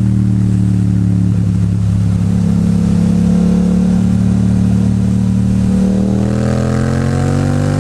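Yamaha MT-07's 689 cc parallel-twin engine pulling under load on the road, its note steady at first, then rising in pitch over the last couple of seconds as the bike accelerates.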